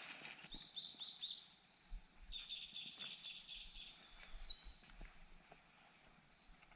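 Songbirds singing: runs of quickly repeated high notes, with a rising phrase about five seconds in, then dying away.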